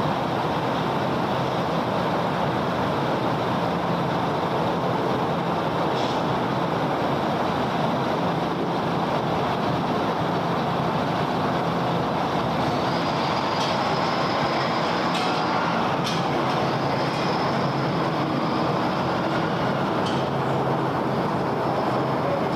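Steady wash of busy city road traffic, tyre and engine noise blending into one continuous sound, with a faint high whine for several seconds in the middle and a few light clicks.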